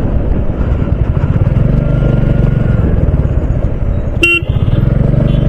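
Royal Enfield Bullet single-cylinder motorcycle engine running under way, a steady, fast-pulsing low thump. About four seconds in, a vehicle horn gives one short beep.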